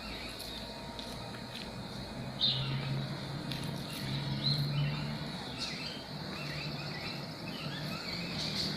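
Outdoor ambience of birds chirping and a steady insect drone, with a low steady hum underneath.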